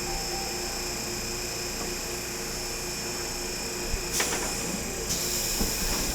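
Steady running hum and hiss of an electric streetcar, with a short knock about four seconds in and a rise of hiss near the end.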